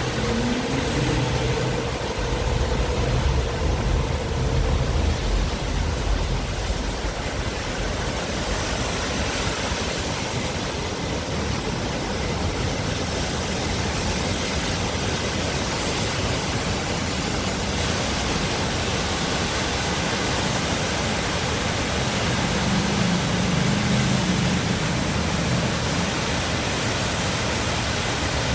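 Waterfall: a steady rush of falling water. A faint low hum shows through it in the first several seconds and again about three quarters of the way through.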